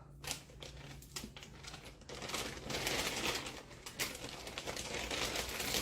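Plastic vacuum-storage bags rustling and crinkling as they are handled, getting louder about two seconds in, with small irregular ticks.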